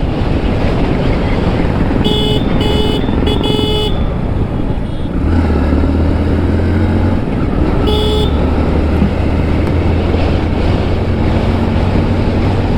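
Motorcycle riding through traffic with wind and road noise rushing over the microphone. A vehicle horn honks three times in quick succession about two seconds in and once more around eight seconds, and a steady low engine drone sets in about five seconds in.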